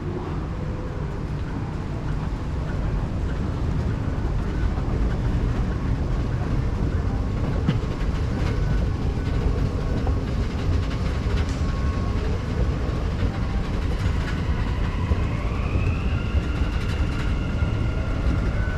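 Dubai Metro train running with a steady low rumble; about three-quarters of the way through, an electric whine rises in pitch and then holds, as the train speeds up.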